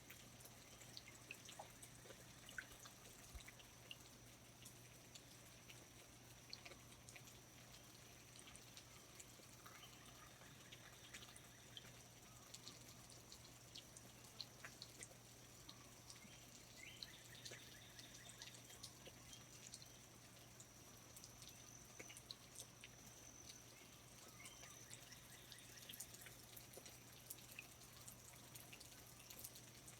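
Faint rainforest ambience: scattered small drips and ticks of water, over a steady high thin tone and a low hum, with a few faint distant calls.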